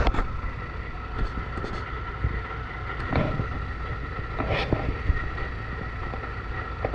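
Truck engine running steadily under a constant whine, with a few knocks and clatters over it. Likely heard during the pull of a stuck truck with a rope and cable.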